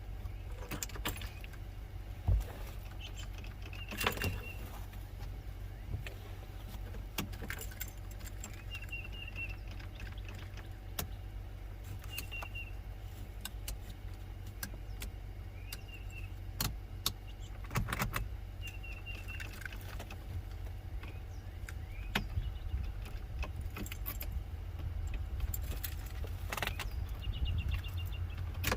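A truck engine idling steadily while it is hooked up to jump the boat, with scattered metallic clinks and knocks.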